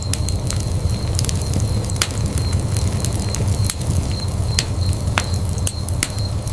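Wood fire burning in a fireplace: a steady low rumble of flames with sharp, irregular crackles and pops from the burning logs, several a second.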